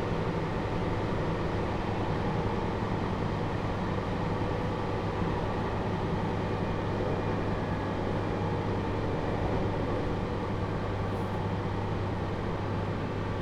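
JR Hokkaido 721-series electric train with a Toshiba GTO inverter, heard from inside the motor car while running at a steady speed between stations: a steady rumble of wheels on rail with a constant low hum.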